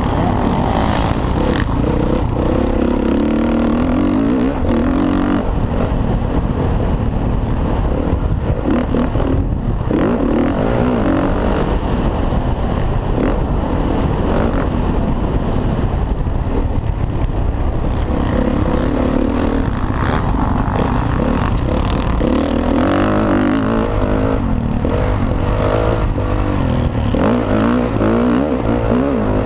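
Motocross dirt bike engine racing, revving up and falling back again and again as the rider accelerates and shuts off through the course.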